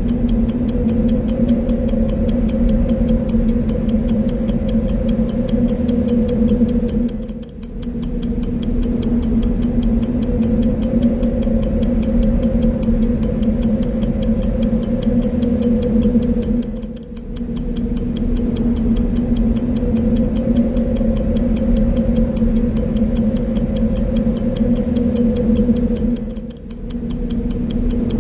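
Clock ticking fast and evenly over a steady, continuous wind sound. The wind dips briefly three times, about every nine or ten seconds.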